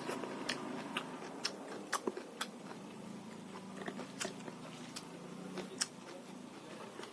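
A person chewing and biting food close to the microphone: irregular crisp crunches and wet mouth clicks.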